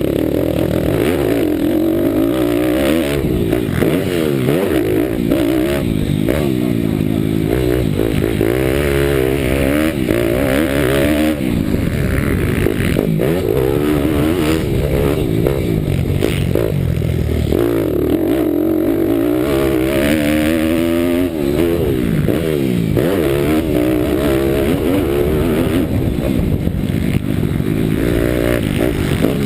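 Bucci Moto pitbike's 190 cc Daytona Anima single-cylinder four-stroke engine, ridden hard: the revs climb and drop again and again as it accelerates and backs off, heard up close from an onboard camera.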